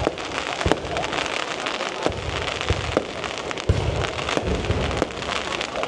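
Aerial fireworks going off: a dense, continuous crackle of bursting shells, with sharp cracks and several deep booms scattered throughout.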